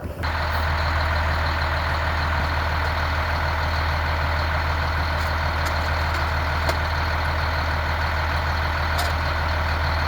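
A large vehicle running steadily: a constant low engine hum under even, heavy road or machine noise, starting and stopping abruptly.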